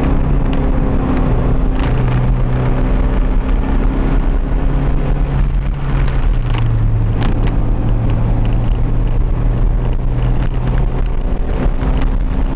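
Honda CRX HF's 1.5-litre four-cylinder engine running hard under load, heard from inside the cabin. Its pitch shifts up and down a few times, with occasional short sharp knocks or rattles over it.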